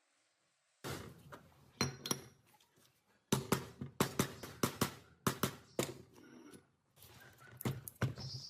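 A run of irregular sharp knocks and clanks, starting about a second in after near silence, several close together, as from hand tools working on metal machine parts.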